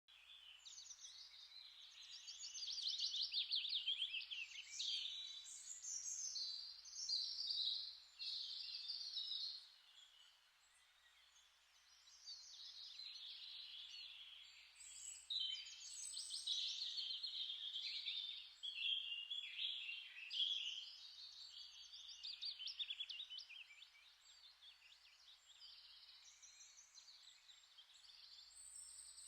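Small songbirds singing: high, rapid twittering trills and chirps in phrases a few seconds long, with a short silent gap about ten seconds in and fainter song near the end.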